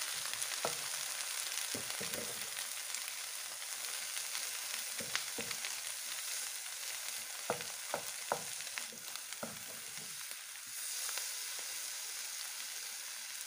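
Battered mussels, egg and bean sprouts sizzling in hot oil in a frying pan as they are stir-fried with a wooden spatula and a metal spoon. Scattered short knocks and scrapes of the utensils against the pan, most of them between about 7 and 9 seconds in.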